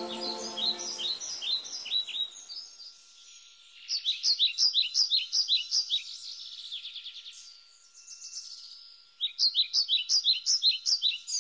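A songbird singing in repeated phrases of quick, sharp, down-slurred chirps, about six notes a second, the loudest phrases about four and nine seconds in. Soft background music fades out in the first two seconds.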